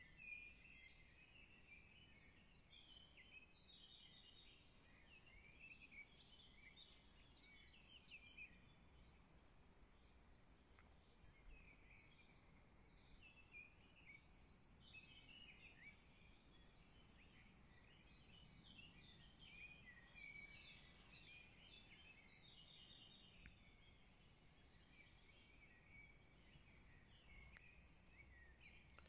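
Faint chorus of songbirds: many short chirps, trills and quick falling notes from several birds, overlapping without a break.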